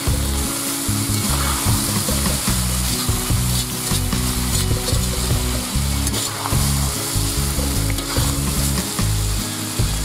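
Meat, onions and carrots frying in hot oil in a cast-iron kazan, sizzling steadily, with the scrape and clink of a metal spatula stirring against the pot. Low steady tones run underneath.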